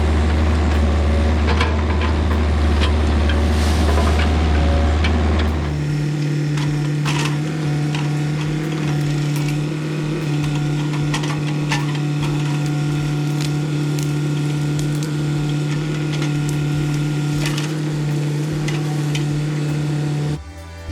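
Heavy earth-moving machine's engine running steadily, its note stepping up about six seconds in, with repeated cracks and snaps of brush and branches being pushed over and crushed as a tree line is cleared. The sound cuts off just before the end.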